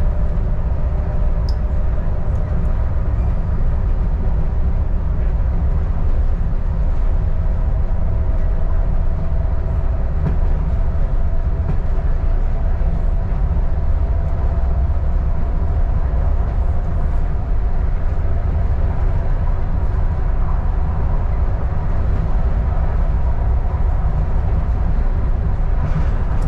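Adelaide Metro diesel railcar running steadily along the line: a continuous low rumble with a faint whine that slowly rises in pitch.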